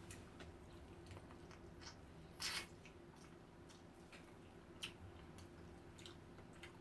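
Close-up mouth sounds of a person chewing braised pork: faint wet clicks and smacks scattered through, with one louder, short hissy sound about two and a half seconds in.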